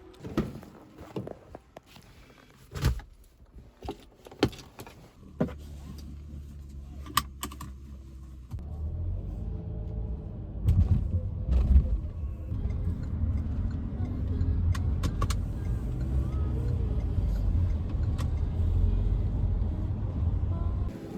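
Keys jangling with several clicks and knocks. About five seconds in, a car engine starts and runs with a steady low hum, getting louder about three seconds later.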